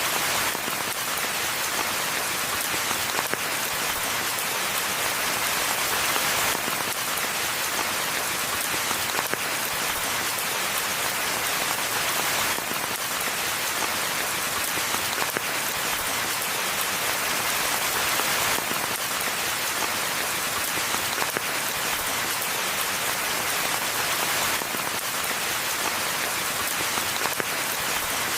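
Steady rain falling in a forest, a dense, even patter of drops that swells slightly about every three seconds.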